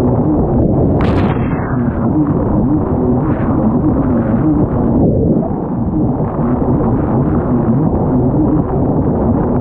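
Kawasaki STX 160 jet ski running at racing speed, its engine note wavering up and down under a heavy rush of wind and water. A brief sharp crash of noise cuts through about a second in.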